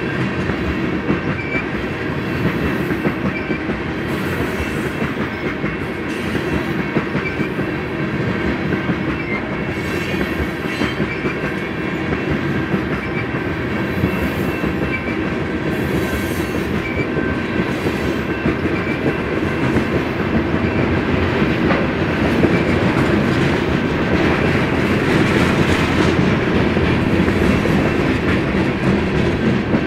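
Long BNSF freight train's cars rolling steadily past at close range: a continuous rumble with wheels clattering over the rail, getting a little louder about two thirds of the way through.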